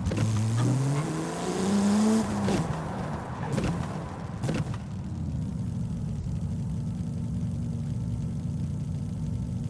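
Porsche Speedster's flat-six engine pulling under acceleration, its pitch rising for about two seconds and then dropping. A couple of short knocks follow, and from about halfway through it settles into a steady low drone at cruise.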